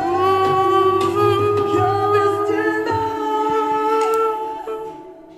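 A woman singing long, held notes without words over a low accompaniment. The last note breaks off and the sound fades away near the end.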